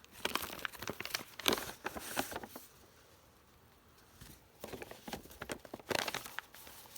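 Paper and card rustling with light clicks and taps as the pages and flaps of a handmade paper journal are handled and turned, in two bursts with a short lull between.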